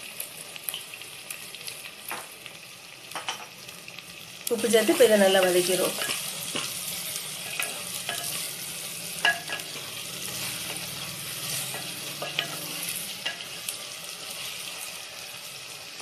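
Onions and tomatoes sizzling in hot oil in a pot while a wooden spatula stirs them, with light knocks of the spatula on the pot. A little over four seconds in, a louder scrape with a squealing pitch lasts about a second and a half.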